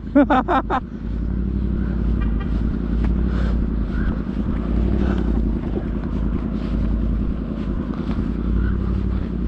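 Yamaha R1 sportbike's inline-four engine idling steadily.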